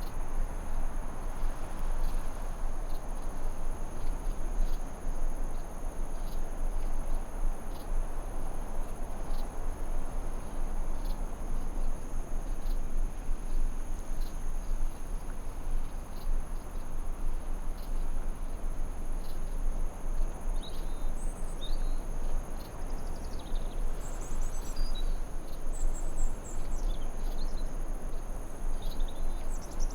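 Forest ambience: insects trill steadily over a constant low rushing hiss. Small birds chirp in short, quick calls during the last third.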